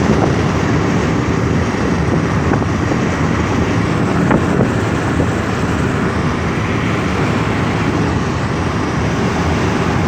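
Steady wind and road noise from a Lada Kalina wagon driving along the road, with wind buffeting the microphone.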